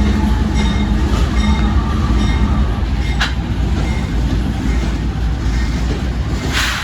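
A freight train rolling past at close range: a loud, steady low rumble with light clicks about twice a second and a couple of brief hissing bursts, the rumble starting to fade at the very end.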